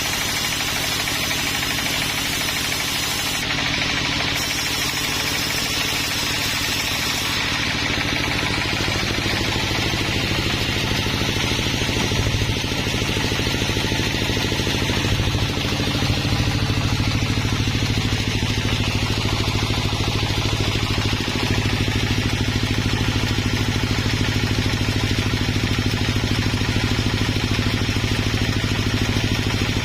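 A sawmill's engine running steadily, growing a little louder about halfway through.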